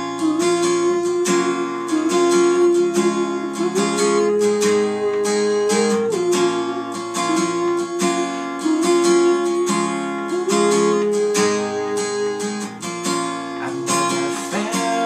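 Acoustic guitar strumming the song's chords, with a held melody line above it that steps to a new pitch every couple of seconds.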